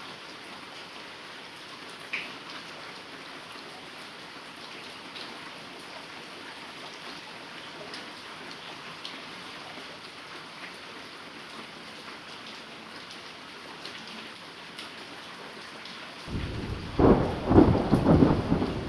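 Heavy rain falling steadily, with scattered drip ticks. About sixteen seconds in, a loud rumble of thunder rises over the rain and is the loudest sound.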